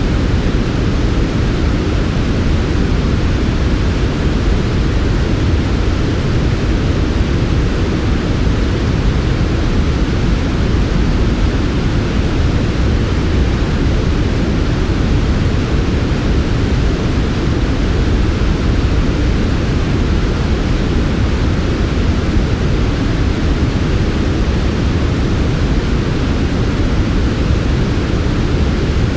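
Steady generated white noise for sleep, softened so that it is heavier in the low end than in the highs, with no change at all.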